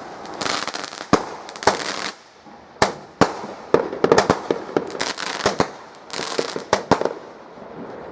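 Fireworks going off: a string of irregular sharp bangs with bursts of crackling between them, most crowded from about four seconds in.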